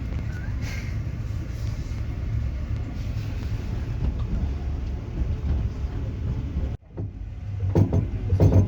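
Passenger train running, heard from inside the carriage: a steady low rumble of wheels on the rails. It cuts out abruptly about seven seconds in, then returns with a few louder knocks near the end.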